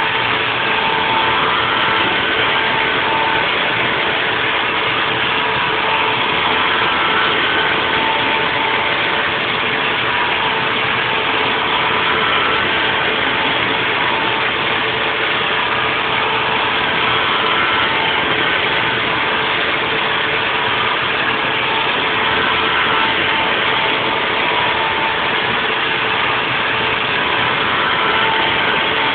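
Haas VF4 CNC vertical mill running a 3D milling cut: steady machine noise with a constant hum and higher tones that come and go every few seconds.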